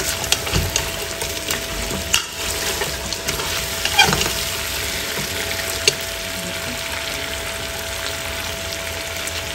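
Mutton and nihari spice mix sizzling in oil in a pressure cooker, stirred with a spoon that clicks and scrapes against the pot. This is the bhunai stage, frying the meat and masala before water is added.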